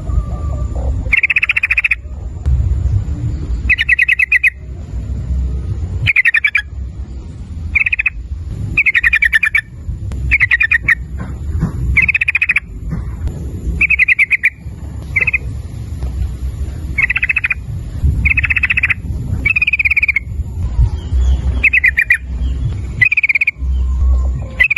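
Yellow-vented bulbul calling over and over: short, rapid, bubbly phrases repeated every second or two, over a low rumble.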